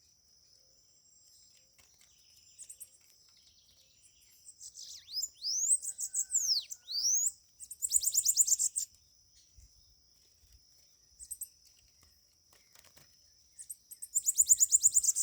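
Bananaquits calling: very high, fast, buzzy trills twice, with high sweeping notes between them and a few short high notes.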